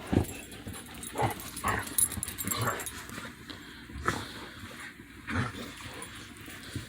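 Two dogs sneezing at each other, a string of short, sharp sneezes at irregular intervals.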